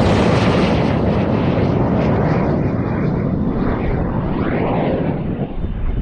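Aerotech M2000 Redline M-class rocket motor burning as the rocket climbs away from the pad: a loud, rushing roar that slowly loses its hiss and grows a little fainter toward the end.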